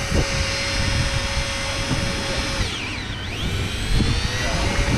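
Electric fishing reel's motor whining steadily as it winds in line. About two and a half seconds in, its pitch drops and then climbs back, over a low rumble.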